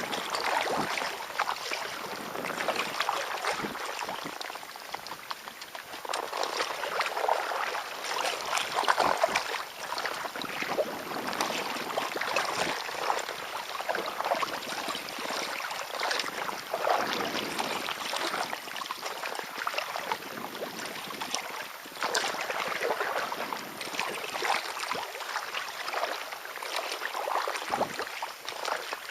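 Kayak paddle strokes splashing and water sloshing against the hull, rising in swells every second or two.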